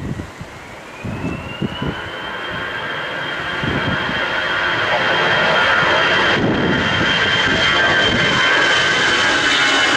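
Jet airliner on approach, its engine whine rising in pitch and then holding as it grows steadily louder and stays loud. Gusts of wind thump against the microphone in the first couple of seconds.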